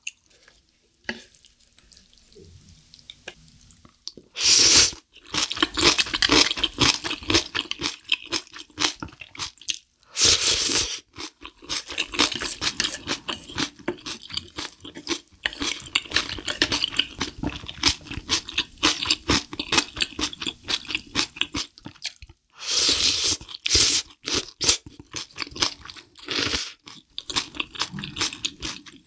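Close-miked mouth sounds of eating spicy black bean sauce with chopped green chilies: steady wet chewing with crunching, broken by a few short, louder bursts.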